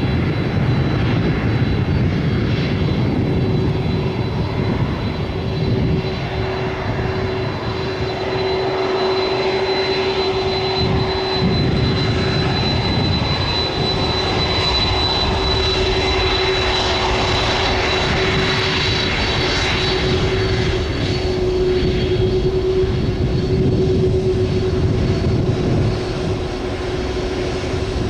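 Boeing 767-300 freighter's twin jet engines at takeoff thrust: a loud, steady engine noise with a constant low hum and a fainter high whine held throughout.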